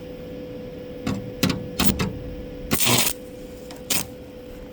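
Stick-welding arc struck on a 1/8 inch electrode at low amperage, crackling in five short spurts, the longest near the three-second mark, each dying out quickly, as the rod struggles to light and hold at the low heat setting. A steady electrical hum runs underneath.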